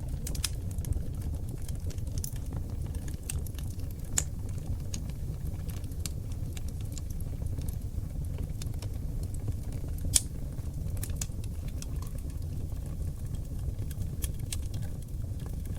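Oak logs burning in a fireplace: a steady low rumble of flame under frequent irregular crackles and pops, with one loud pop about ten seconds in and another about four seconds in.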